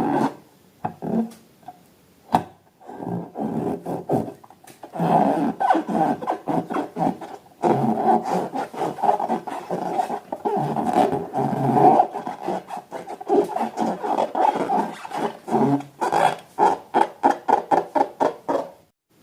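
Slime being squeezed and worked by hand, sticky squelches and rubbing with many clicks and pops, ending in a quick run of pops.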